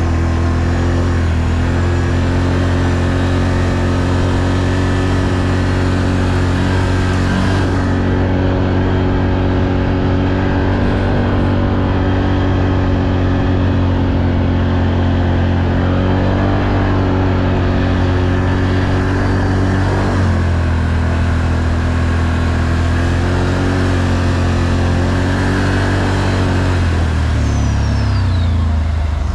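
ATV engine running steadily under way, its pitch shifting a few times as the throttle changes and dropping near the end as the machine slows.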